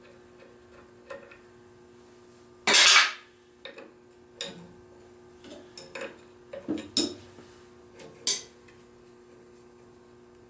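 Metal tools and engine parts clinking and knocking in scattered single strikes, with one louder, half-second scrape about three seconds in.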